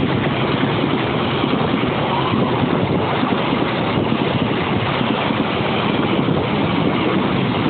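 Lodaya passenger train passing at speed close by, a steady loud rush of wheels on rail and coaches going past. It eases just after the last coach clears.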